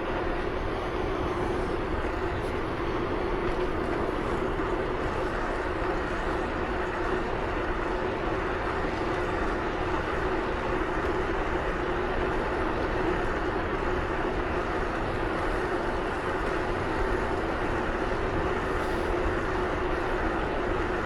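Steady vehicle travel noise at constant speed: rushing wind and road noise with a constant drone that holds one pitch throughout.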